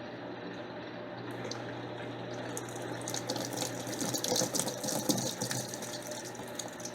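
Electrolux LTC10 washing machine with water splashing and running in its tub, over a steady low hum. The splashing grows louder from about a second in.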